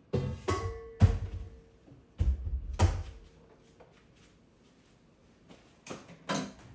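Kitchen handling sounds: a series of knocks and thuds as cookware and utensils are set down and moved, one with a short ringing clink about half a second in and the loudest a low thud about a second in, then a pair of knocks near the end.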